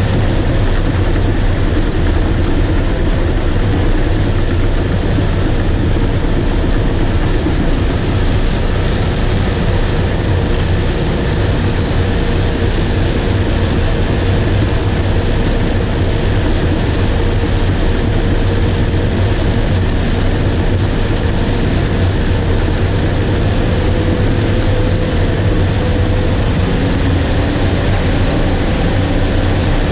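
Bulldozer's diesel engine running steadily under load, with a strong low hum and a broad rumble that barely changes.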